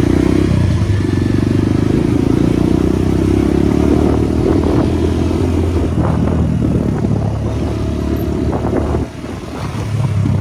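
Motorcycle engine running under way, steady for most of the stretch; about nine seconds in the sound briefly drops, then picks up again.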